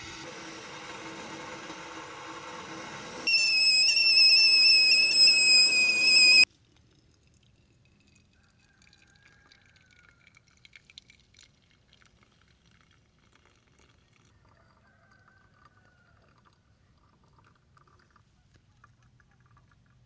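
A steady hiss, then a kettle whistling loudly on a single high, slightly wavering tone for about three seconds. It cuts off suddenly, leaving near quiet with a few faint chirps and ticks.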